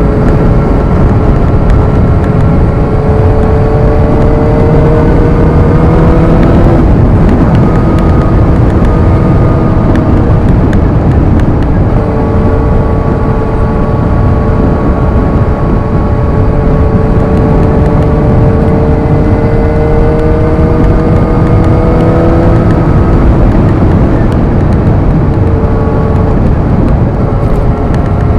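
Suzuki GSX-R sport motorcycle engine heard from the rider's seat, its pitch climbing slowly under acceleration and dropping at gear changes a few times. Heavy wind rumble on the helmet microphone runs underneath.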